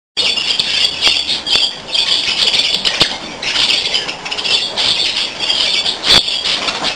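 A flock of budgerigars chattering and squawking continuously, with a few sharp clicks mixed in.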